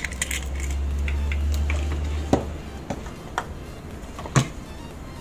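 A low rumble for the first two seconds or so, then a few sharp taps and knocks of kitchen dishware, about four over the next two seconds.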